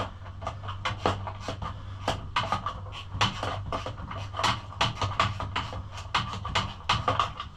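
Hand ratchet wrench clicking in quick uneven runs as an 8mm bolt is backed out, over a steady low hum.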